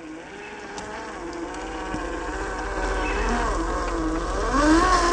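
Electric motor and gearbox of an RC rock crawler whining, the pitch rising and falling with the throttle and growing louder.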